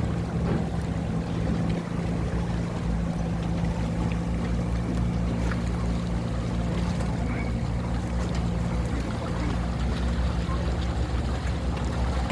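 Tugboat engine running steadily, a continuous even drone with a low hum that holds the same pitch throughout.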